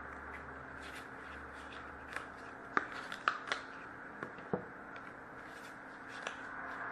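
Hockey trading cards being handled and sorted by hand, a scatter of light clicks and taps of card stock, most of them in the middle of the stretch, over a faint steady hiss.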